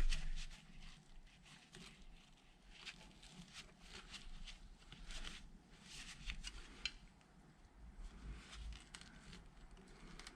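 Handling noise as a battery cable end and its lug are worked by hand: a knock at the start, then scattered light clicks and scrapes.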